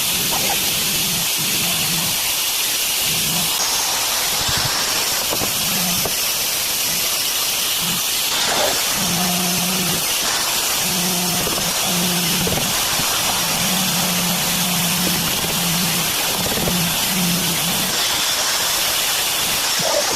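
A steady, loud hiss runs throughout, with a low hum that comes and goes in short stretches.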